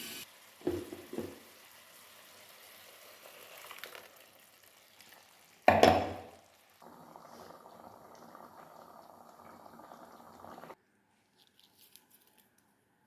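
Kitchen cooking sounds from a pan of coconut chicken curry: a few short knocks of a utensil against the pan, a louder clatter about six seconds in, then a steady bubbling simmer that cuts off suddenly near eleven seconds.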